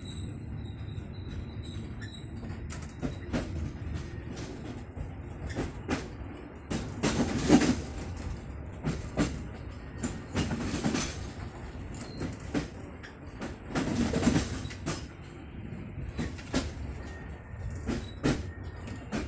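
Kahuripan passenger train running on the rails: a steady low rumble with irregular clicks and clanks, and louder rushing surges about seven, ten and fourteen seconds in.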